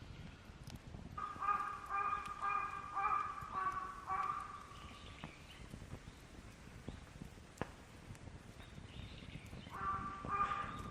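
A bird giving a quick run of short, nasal, evenly pitched calls, about seven or eight in three seconds, then starting another run near the end. A few sharp clicks sound in the quiet between.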